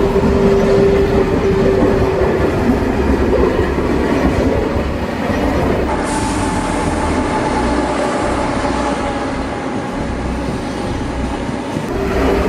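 High-speed train running on the track: a continuous rumble and rushing noise, with a steady whine in the first two seconds. About six seconds in the sound changes, with a higher steady whine for a few seconds.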